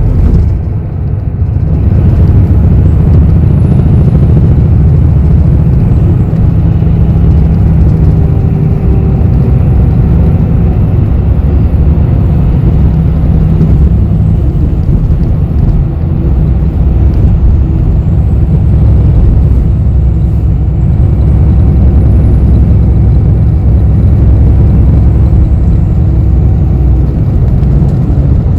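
Steady low rumble of a city bus's engine and road noise heard from inside the cabin while riding. A faint high whine rises and falls in pitch at times.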